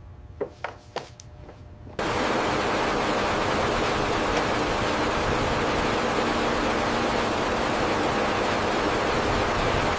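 A steady, even rushing noise that starts abruptly about two seconds in, after a couple of faint clicks, and holds at a constant level.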